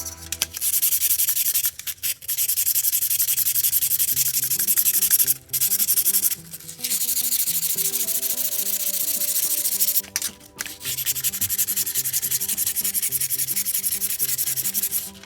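Fast back-and-forth sanding on a rusty kiseru, a Japanese smoking pipe, in four long runs with short pauses between them.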